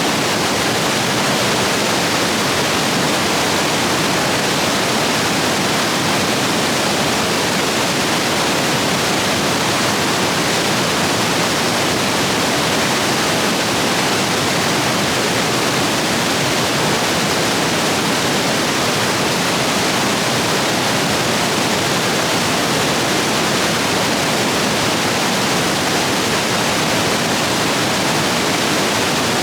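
Stream rapids rushing steadily, swollen after heavy rain: a constant full rush of water with no breaks.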